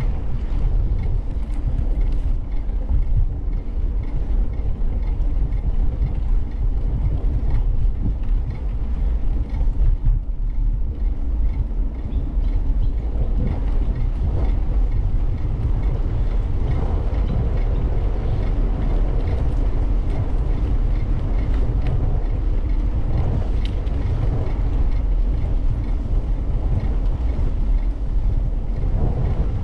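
Steady low rumble of a bicycle ride: wind buffeting the bike-mounted camera's microphone and tyres rolling along the path, with faint ticks and rattles.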